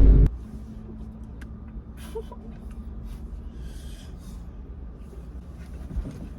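A loud boom cuts off just after the start. Then a low steady hum runs under faint gasps, breaths and small clicks.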